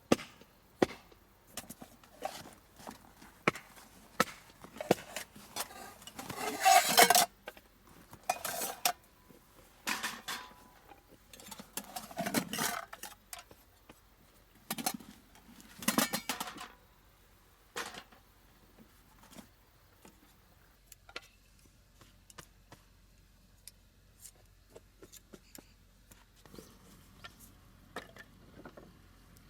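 Cookware and utensils being handled: scattered clinks, knocks and taps, with several longer, louder clattering passages in the first half, the loudest about six to seven seconds in, and only light taps later.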